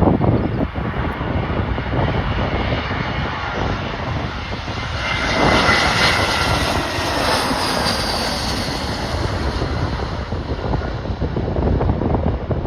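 Jet airliner on final approach, its engines swelling to a whine about halfway through, then falling in pitch and fading as it passes. Gusty wind buffets the microphone throughout.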